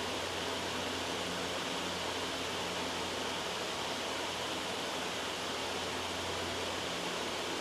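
Loud, steady white noise: an even, unbroken hiss with a faint low hum beneath it.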